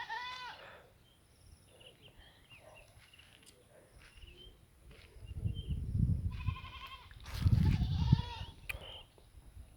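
A farm animal bleating, a short call as it begins and another about two-thirds of the way through, with faint chirps between. Low rumbling noise comes twice, around the middle and near the end, louder than the calls.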